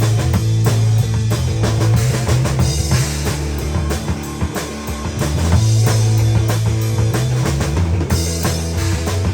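Rock band playing: a drum kit keeping a steady beat under guitar, with a strong bass line changing notes.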